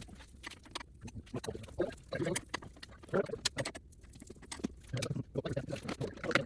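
Irregular clicks, knocks and light clatter of hand tools and parts being handled during bumper removal.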